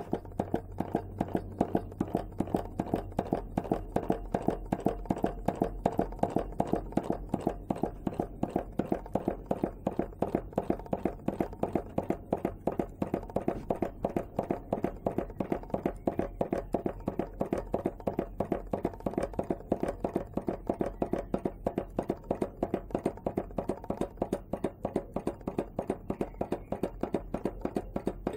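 Small home-made hot-air (Stirling) engine, converted from an air pump, running steadily and clacking evenly at about four strokes a second.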